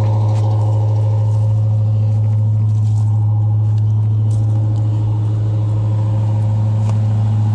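1978 Chevy one-ton's 350 small-block V8 idling steadily, a constant even hum with no change in speed.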